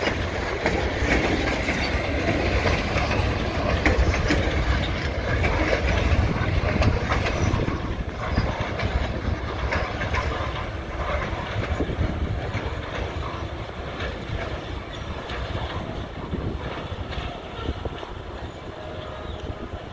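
Freight train of covered hopper cars rolling by, wheels clacking on the rails. The sound fades from about eight seconds in as the end of the train moves off.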